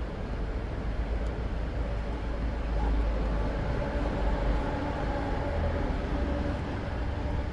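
Steady low rumble of road traffic, with the steady hum of a vehicle engine rising out of it for a few seconds in the middle.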